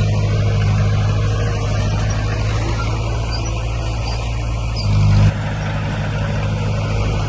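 Heavy diesel earthmoving machinery running steadily under load, with a deep engine drone. It swells briefly about five seconds in and then drops off abruptly.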